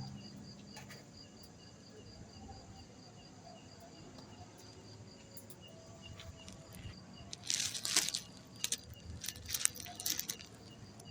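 Night insects chirping in a steady, even rhythm of about three chirps a second. Two short bursts of rustling, crackling noise come about seven and nine seconds in, and they are the loudest things heard.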